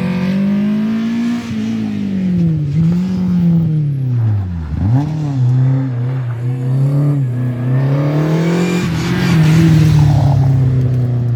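Rally car engine revving hard on a special stage, its pitch climbing and falling with the throttle and gear changes. About halfway through the revs drop sharply as the driver lifts, then pick up again.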